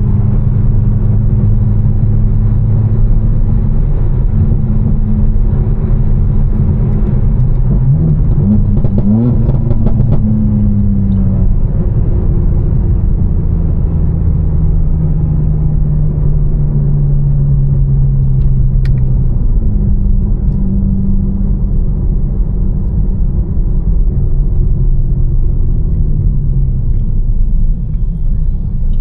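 Tuned BMW M4 with a Fi exhaust running steadily at a cruise, its engine drone mixed with road noise. The engine note rises and falls briefly about a third of the way in and steps in pitch a few more times later.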